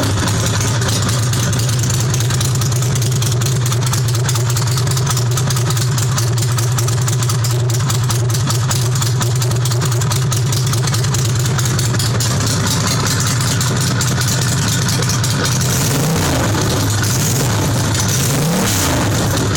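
Ducati Monster 620's air-cooled V-twin engine running with no exhaust fitted, straight off the open headers, so it is loud. It idles steadily, then is given a couple of short throttle blips near the end.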